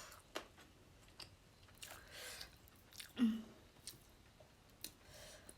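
Close-miked mouth sounds of a person chewing food, with scattered soft wet clicks. A brief hummed voice sound comes about three seconds in.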